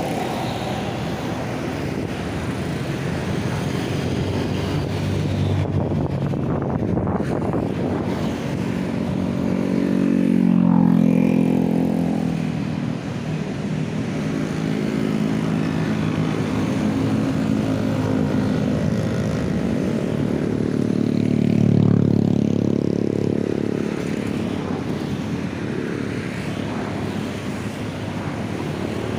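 KRL Commuter Line electric train running past, its motor hum swelling twice, about a third of the way in and again about three quarters of the way in.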